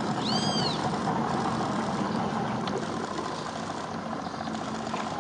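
An engine idling steadily, with a short rising-and-falling bird whistle about half a second in.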